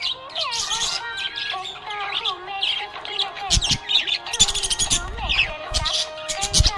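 Budgerigars chirping and warbling continuously: quick high chirps over a running, wavering warble.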